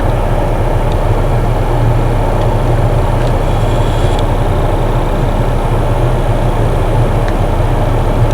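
Vehicle engine running steadily, a low, even hum.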